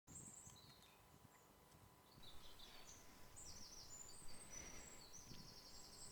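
Faint birdsong in woodland: high chirps, and short rapid trills from about two seconds in, over a quiet background.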